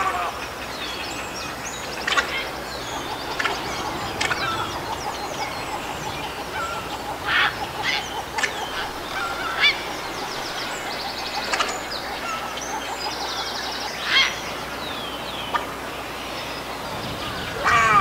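Several birds calling over one another: short harsh calls scattered throughout, and a rapid trill on one pitch running from about four seconds in until about fourteen seconds in.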